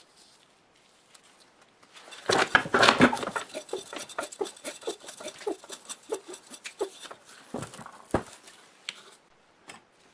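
Hand work on metal parts: a noisy scraping burst, then a run of light clicks and short ringing metallic taps, and one sharper knock.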